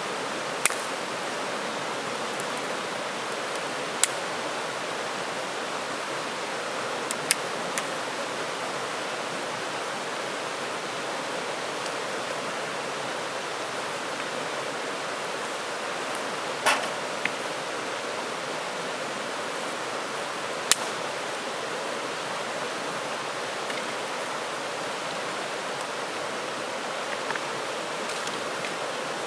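Steady rushing of a flowing river, with a handful of short, sharp clicks scattered through it.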